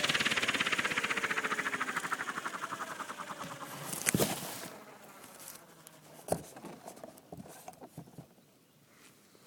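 Gaui 550 RC helicopter spooling down: the rotor blade chop and motor whine slow, drop in pitch and fade away over about five seconds. Two sharp clicks come about four and six seconds in, followed by a few faint ticks.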